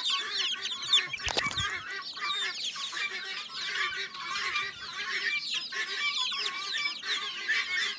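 A crowd of poultry chicks peeping continuously, many short high chirps overlapping. There is a brief knock about a second in.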